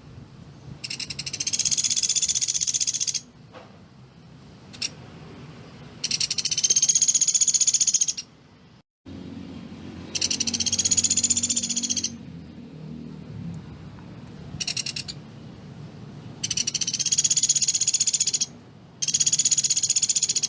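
Pelatuk beras woodpecker calling in rapid, rattling trills. Each trill lasts two to three seconds and rises and falls slightly in pitch, and about six of them come in a row with short gaps. A faint low hum runs underneath.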